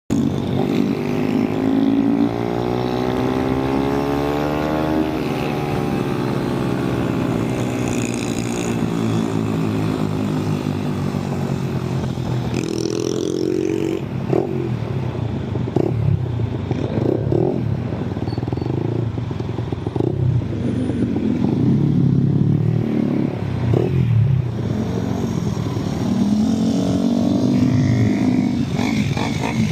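Honda Monkey minibike's single-cylinder four-stroke engine running through an aftermarket Over Racing exhaust. Its pitch climbs steadily over the first five seconds and then eases off, followed by a stretch of short revs rising and falling as the throttle is worked.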